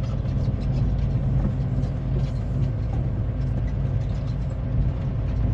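Semi truck's diesel engine running steadily under way, a low drone with road noise, heard from inside the cab.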